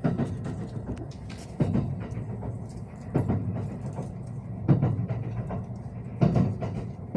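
Train running through a station, its wheels knocking over rail joints in an even, slow rhythm, about one heavy clack every second and a half over a steady rumble.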